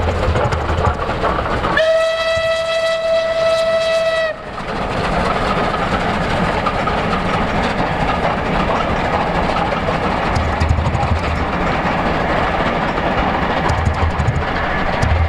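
Steam locomotive and train passing, its whistle sounding one long, steady note for about two and a half seconds near the start, over the continuous running noise of the engine and carriages on the track.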